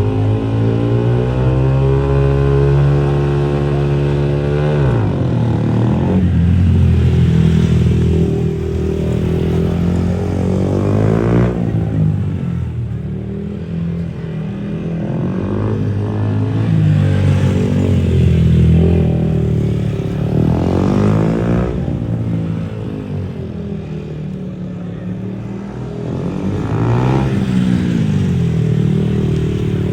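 Small single-cylinder Yamaha R15 motorcycles racing laps: engines revving hard, pitch climbing through the gears and dropping away again several times as the bikes go past and brake.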